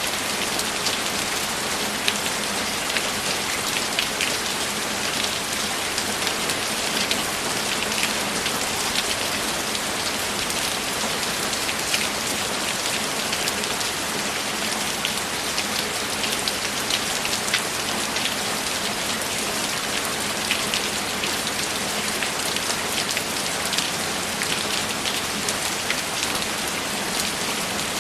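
Steady, even rain with dense individual drops pattering on a surface.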